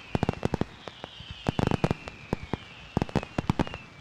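Fireworks going off: rapid, irregular pops and crackles, thickest about halfway through, with faint high whistles falling in pitch underneath.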